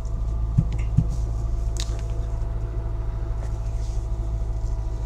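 Kia car engine idling steadily just after a hard cold start in deep frost, heard inside the cabin as a low, even hum with a faint steady whine. Two short low thumps come about half a second and a second in.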